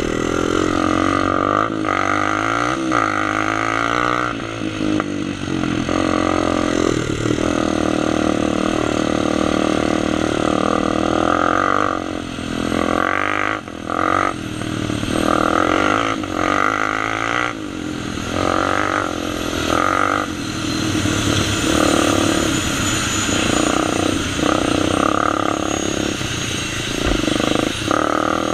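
Honda TRX sport quad's single-cylinder four-stroke engine revving up and down while riding, its pitch rising and falling over and over.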